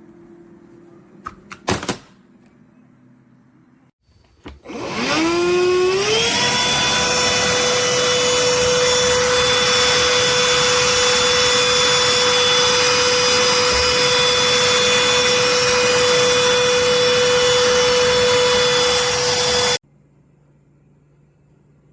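Cordless handheld vacuum cleaner: a few clicks, then the motor spins up with a rising whine and runs steadily at a high, even whine for about fourteen seconds before cutting off suddenly near the end.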